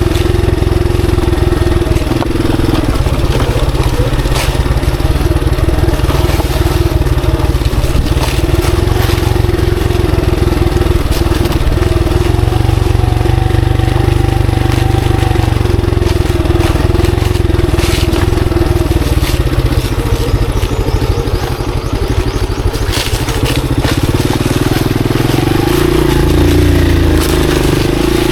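Monarch Axis 125 trail motorcycle engine running while riding, steady for most of the time, with the revs shifting about four seconds before the end. Scattered short clicks and knocks come through over the engine.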